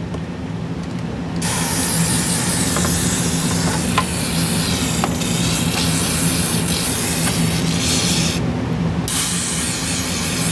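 Aerosol cleaner spray hissing onto a graphics card's circuit board to wash off grime. One long spray of about seven seconds, a brief pause, then a second spray.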